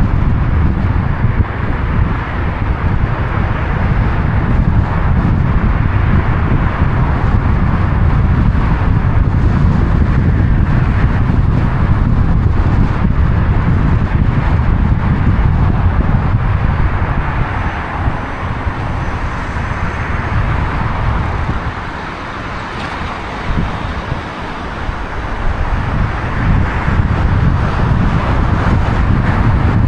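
Steady rumble of a moving car's road and wind noise, with wind buffeting the microphone; it eases off for a few seconds past the middle, then comes back.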